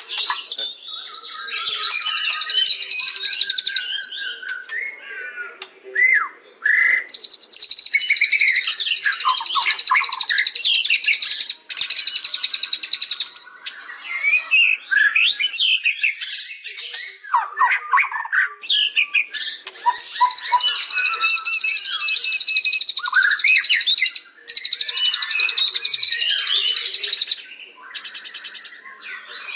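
White-rumped shama (murai batu) singing continuously. Its song mixes varied whistled notes that slide up and down with long, rapid, high buzzy trills that last several seconds each and come back again and again.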